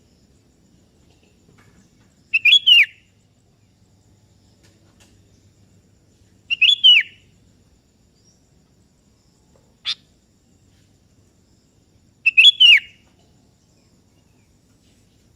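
Sooty-headed bulbul (kutilang) calling: three short phrases of a few quick whistled notes each, spaced about four to six seconds apart, with a single faint short note between the second and third.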